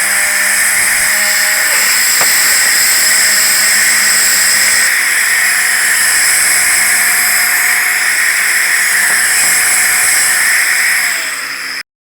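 A power tool running steadily with a strong hiss. Its pitch and level drop near the end as it winds down, and then it cuts off suddenly.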